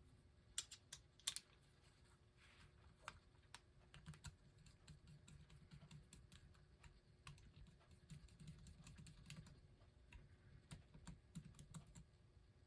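Faint, scattered clicks and taps of a small hand tool and metal nuts and washers being handled and fitted on a record player's motor mount, with a couple of sharper clicks about a second in.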